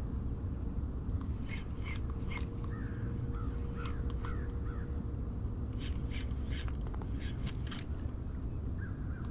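A bird calling in a series of short chirping notes, mostly in the middle of the stretch, with scattered sharp ticks, over a steady low background hum.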